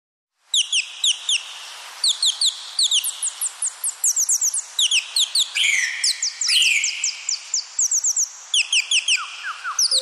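Birds chirping: many quick, high, falling chirps in rapid series, overlapping, with two longer, louder calls about five and a half and six and a half seconds in.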